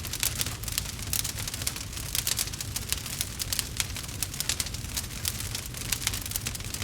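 Campfire crackling, with rapid irregular snaps and pops over a low steady rumble.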